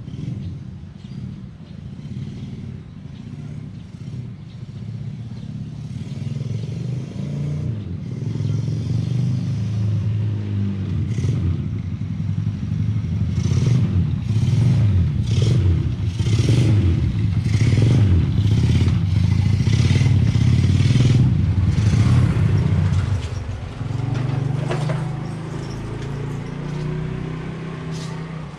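Honda Revo underbone motorcycle with a converted two-cylinder engine, running and being revved repeatedly. The revs climb and rise in surges for most of the stretch, then the engine settles back to a steadier, quieter run about three-quarters of the way in.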